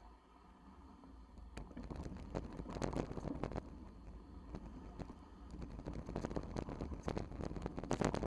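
Bicycle rattling and clattering over rough, rocky ground, with irregular knocks and clicks from the frame and parts, heaviest about two seconds in and again near the end, over a low steady rumble.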